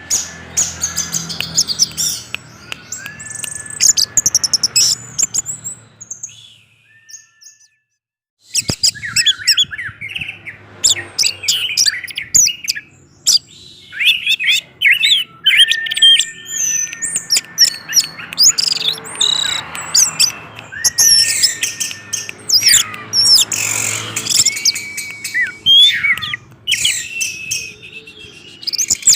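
Orange-headed thrush singing a fast, varied song of whistles, chips and trills, with held whistles between them and a short break about seven seconds in.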